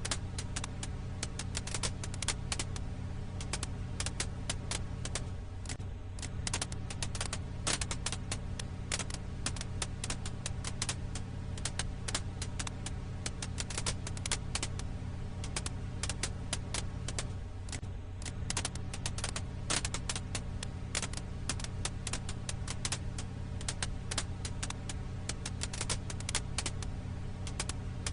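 Wood fire crackling, with irregular quick pops and snaps over a steady low rumble.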